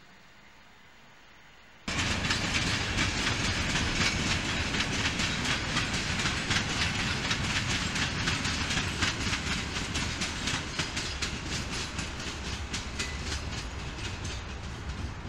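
Passenger train coaches passing close by: a loud, steady rolling rush of wheels on rails, with a fast run of clicks as the wheels cross rail joints. It starts suddenly about two seconds in, after a faint low background, and eases slightly near the end.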